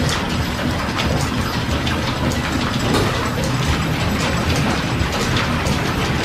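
Small stationary steam engine running, with a steady hiss of steam and mechanical clatter.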